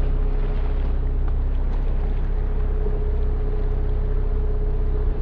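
Boat motor running steadily under way: a loud, even drone with a steady hum over it, cutting off suddenly at the end.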